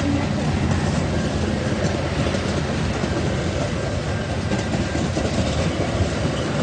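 Metra commuter train rolling past with a steady rumble and wheels clicking over the rail joints.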